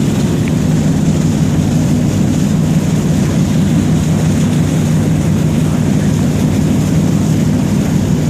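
Car ferry's engines running with a steady low drone and a constant hum, unchanging throughout.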